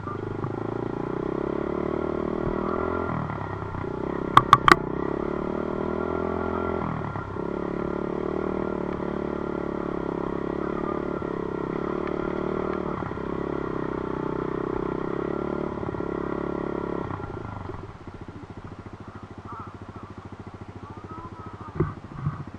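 Dirt bike engine running under throttle, its note dipping briefly three times, then dropping to a quieter, even idle about 17 seconds in. Three sharp clicks sound about four and a half seconds in.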